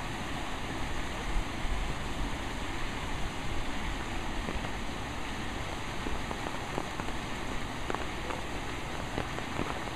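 Steady rain falling hard during a storm, an even hiss of water with a few faint scattered ticks of drops striking nearby surfaces.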